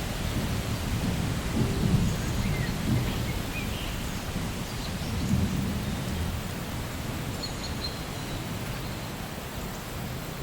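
Steady rain with a low rumble of thunder underneath that swells and fades, easing off near the end.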